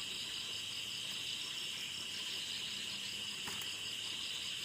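Steady chorus of crickets chirring in the dark, a dense high-pitched pulsing trill that runs on without a break, with a faint tick about three and a half seconds in.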